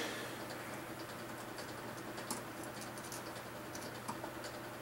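Faint, scattered small clicks and light taps of hand tools being worked on the vehicle, over a steady low hum.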